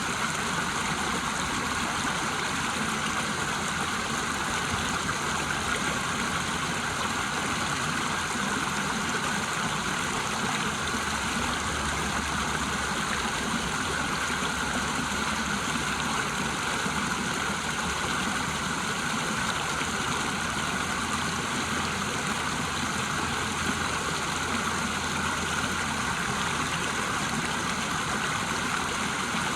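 A river rushing steadily over a waterfall.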